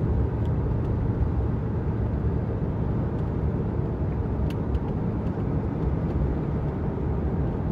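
Steady low road rumble inside a pickup truck's cabin while cruising: noise from the all-terrain tyres, with the Walker Quiet-Flow muffled exhaust barely heard.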